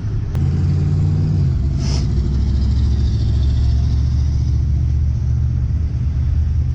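A motor vehicle's engine running nearby: a steady low rumble, with a brief hiss about two seconds in.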